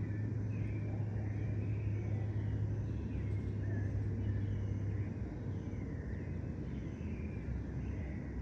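A steady low rumble of road traffic that eases about five seconds in, with birds chirping over it.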